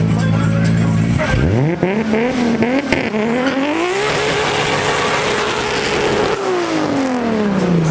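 Car engine idling, then revving up with a few quick blips, held high for about two seconds and dropping back toward idle near the end.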